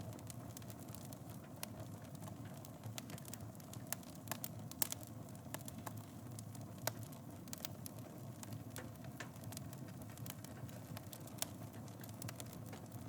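Wood fire in a fireplace burning steadily: a low rumble of flames with frequent small crackles and a few louder pops.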